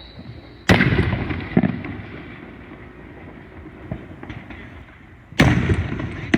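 Fireworks going off: two loud bangs, one about a second in and another near the end, each trailing off in a long rolling rumble, with a smaller pop shortly after the first.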